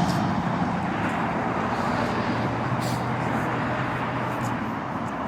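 Road traffic noise: a steady wash of passing vehicles with a faint low engine hum, slowly getting a little quieter.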